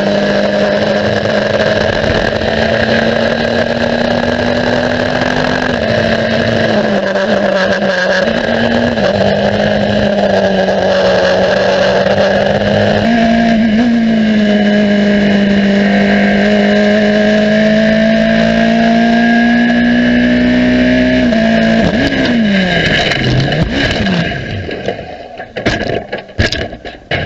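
Race car engine held at high revs for about twenty seconds, its pitch stepping slightly up and down, then falling sharply as the car slows. A run of choppy knocks and clatter follows near the end.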